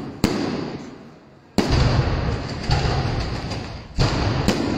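Aerial fireworks bursting: four sharp bangs, one just after the start, one about a second and a half in, and two close together near the end. Each bang is followed by a dying echo.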